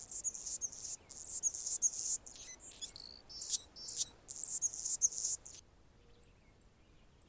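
Male Anna's hummingbird singing its very high, scratchy, buzzy song, a quick run of squeaky phrases that stops about five and a half seconds in. Faint high ticks follow.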